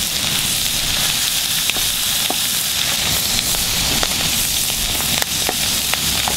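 Pork belly, minced garlic and lemongrass sizzling steadily in a pan in the pork's own rendered fat, with no oil added. A few sharp pops are scattered through, and a wooden spatula stirs the pan partway through.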